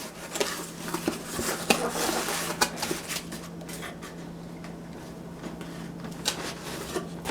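Cardboard box being handled: scattered light clicks, taps and rustles, busiest in the first few seconds and with a couple more near the end, over a steady low electrical hum.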